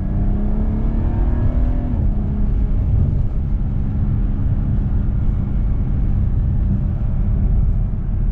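Car engine and road rumble heard from inside the cabin. The engine note climbs for about two seconds, drops suddenly at an upshift, then holds steady while cruising.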